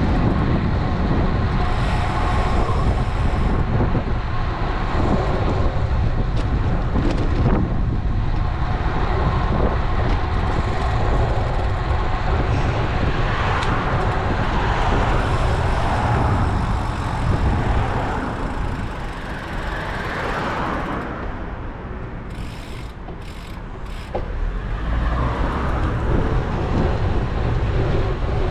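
Wind rushing over an action camera's microphone on a moving road bike, mixed with road traffic noise; the wind eases for a few seconds about three quarters through.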